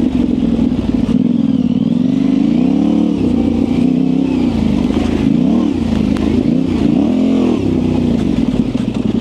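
Yamaha Ténéré 700's parallel-twin engine running under way, its pitch rising and falling several times as the throttle is opened and rolled off.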